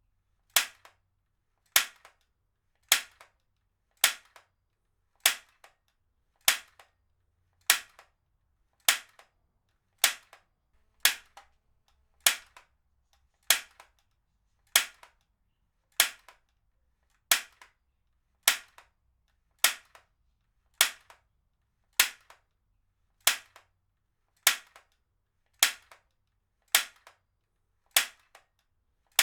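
Heavy-duty stapler fired over and over at a steady pace, one sharp snap about every 1.2 seconds, each followed by a faint second click.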